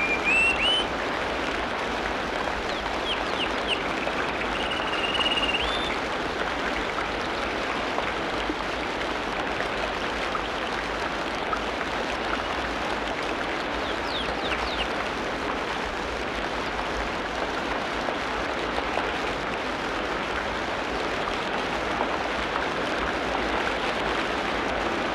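Tropical rainforest ambience: a steady hiss under scattered bird calls. A rising whistle opens it, a few short calls and one held whistle follow within the first six seconds, and a pair of quick downward-sliding calls comes about halfway through.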